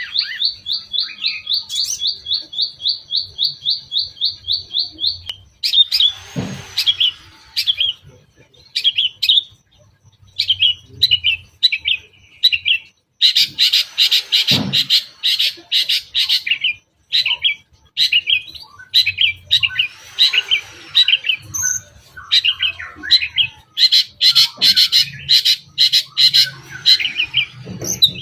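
Long-tailed shrike singing. It opens with a fast run of identical notes, about five a second, for the first five seconds, then breaks into varied chattering phrases mixed with harsh notes and a few rising-and-falling whistles, the mimicked 'isian' of its song.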